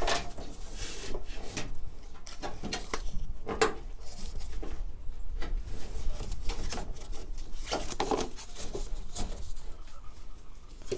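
Small parts being handled and pushed back into place by hand: scattered clicks, knocks and rubbing, with a few sharper knocks at the start, about three and a half seconds in and about eight seconds in.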